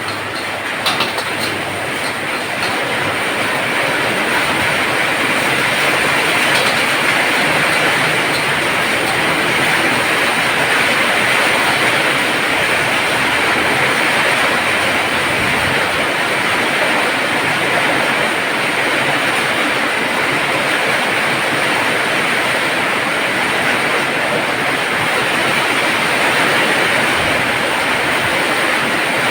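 Heavy rain pouring down steadily, a dense rushing hiss that builds up over the first few seconds and then holds.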